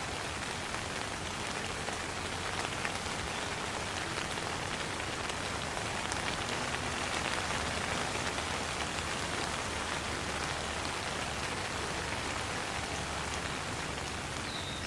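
Steady rain falling, a constant even hiss dotted with many small ticks of individual drops.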